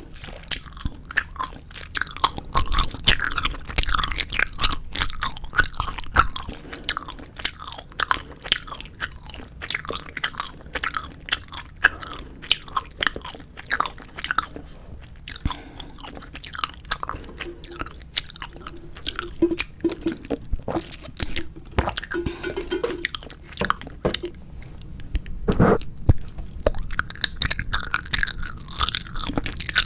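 Close-miked chewing and biting of 4D gummy jelly candies: a dense run of quick, wet mouth clicks, with one heavier bite about 25 seconds in.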